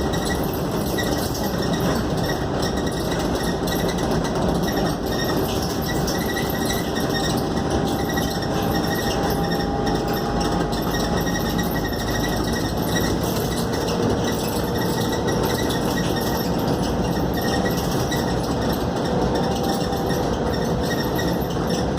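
Scania K280UD double-decker bus heard from inside the cabin while under way: steady engine and road noise, with a faint whine that rises slowly from about halfway through as the bus gathers speed.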